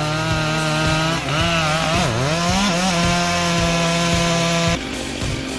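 Chainsaw running at high speed cutting wood, its pitch steady apart from a brief dip and recovery about two seconds in. Near the end the sound cuts abruptly to a quieter engine sound.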